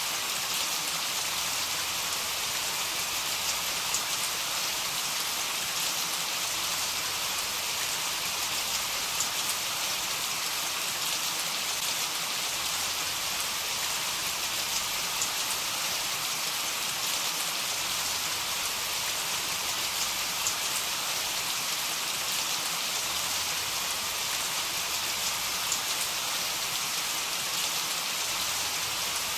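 Heavy rain falling steadily: a dense, even hiss with scattered faint ticks of drops, and no thunder.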